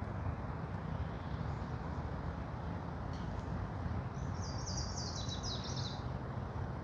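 Forest ambience: a steady low rumble and hiss, with a small songbird singing one quick series of notes that step down in pitch, about four seconds in and lasting under two seconds.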